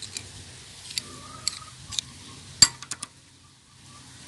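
A scattered series of short, sharp clinks and taps of hard objects, about eight, the loudest about two and a half seconds in.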